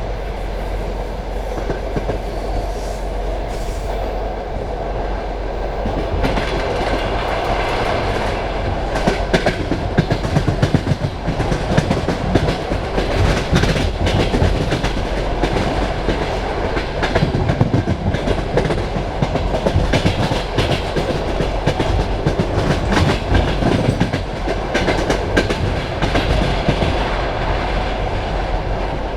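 Passenger train carriage running on the rails: a steady rumble with wheels clicking over rail joints, the clicking growing louder and busier about six seconds in.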